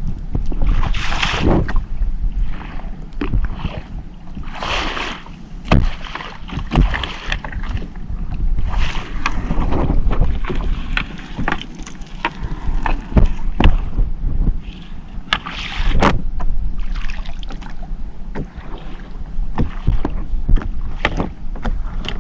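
Small fishing boat at sea in strong wind: water washes and splashes against the hull every few seconds over a steady low rumble, with scattered knocks and clatters on board.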